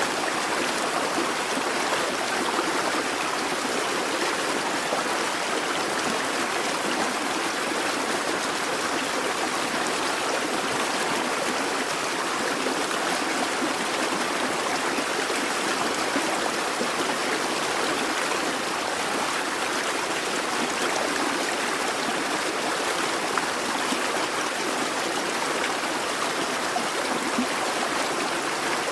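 Brook babbling: a steady rush and trickle of running water over stones, even and unbroken throughout.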